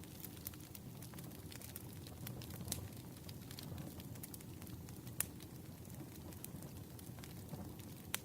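Campfire burning: a steady low rush of flames with sharp crackles and pops of burning wood scattered irregularly, a few louder pops standing out, one about five seconds in.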